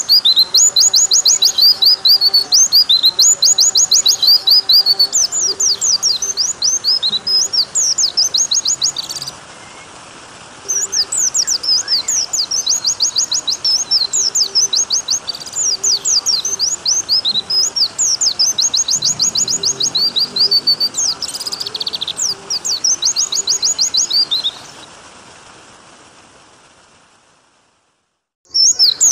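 White-eye (pleci) song: fast runs of high chirping phrases, repeated with short breaks and one longer pause about a third of the way through, over a steady background of running water. The track fades out near the end and the song starts again just before it closes.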